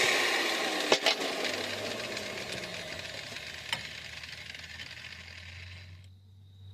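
Power grinder's cutting disc spinning down after cutting through a rusted caliper bolt, its whine falling in pitch and fading slowly. A couple of sharp metal clicks about a second in and another near four seconds, over a faint steady hum.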